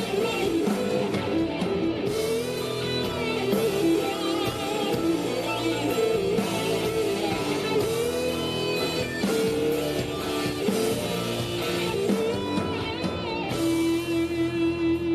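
Live rock band playing, led by a sustained electric guitar melody whose notes waver in pitch. Near the end a single note pulses steadily, about three times a second.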